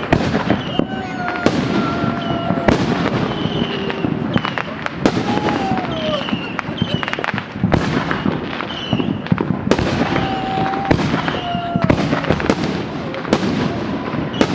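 Consumer fireworks going off in quick succession: many sharp bangs and crackles, with short whistling tones among them.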